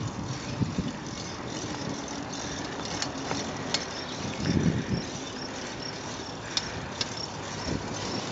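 Steady rushing noise of riding along on a bicycle with a handheld camera, with a few light clicks and rattles scattered through it.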